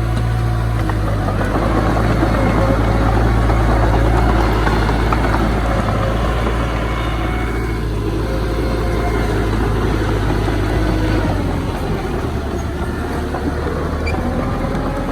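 Heavy diesel engine of earthmoving machinery running steadily, with its low note shifting and easing slightly about eleven seconds in.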